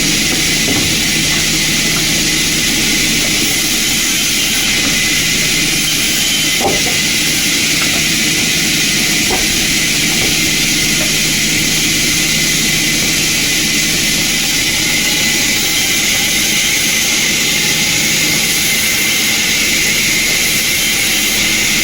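Sawmill machinery running steadily: an even, loud hiss with a steady low hum underneath, unchanging throughout.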